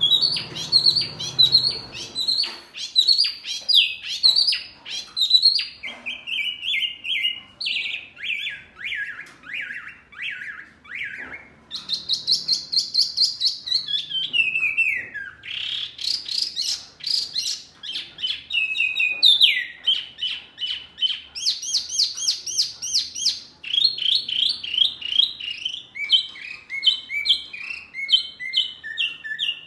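Songbird song of the kind used for masteran tutoring: a continuous run of rapid, repeated chirped notes, switching to a new phrase every second or two, some phrases sliding down in pitch.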